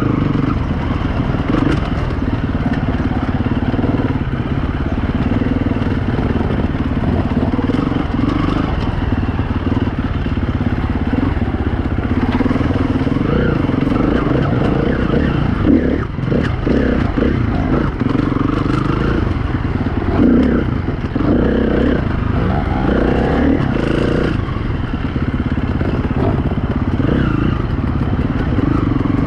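2016 KTM 350 EXC-F's single-cylinder four-stroke engine running as the dirt bike is ridden over rough trail, its pitch rising and falling with the throttle. A couple of sharp knocks from the bike over rocks come near the middle.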